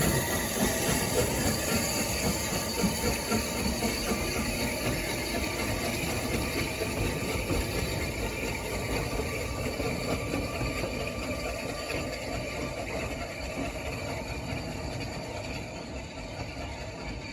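A Mid Hants Railway train running along the track, its sound growing gradually fainter as it moves away.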